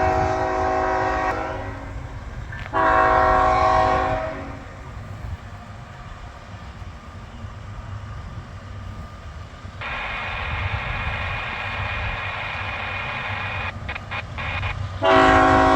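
Freight locomotive air horn sounding a series of blasts over the low rumble of the passing train. A blast at the start dies away, a short one comes about three seconds in, a fainter chord is held for several seconds past the middle, and a loud blast sounds near the end.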